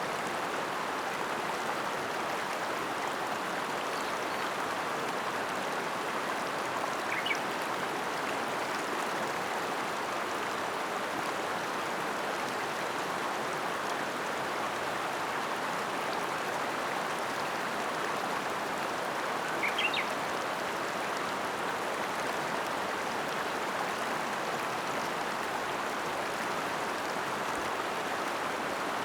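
River water flowing in a steady, even rush. Two short high-pitched sounds stand out briefly, about seven and twenty seconds in.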